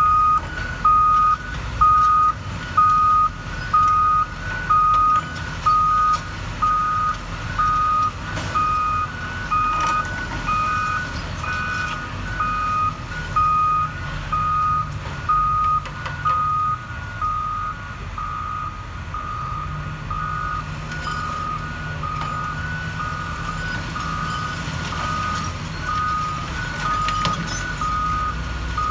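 Backup alarm on heavy construction equipment beeping steadily about once a second, over the low rumble of the machines' diesel engines. The beeps get somewhat fainter about halfway through.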